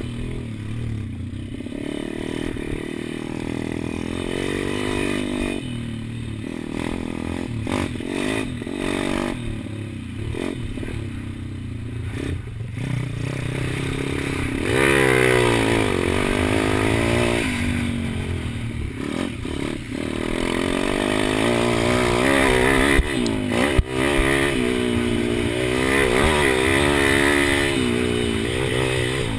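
Pit bike's small single-cylinder engine racing on track, its revs rising and falling over and over as the rider accelerates and shifts, heard close up from the bike.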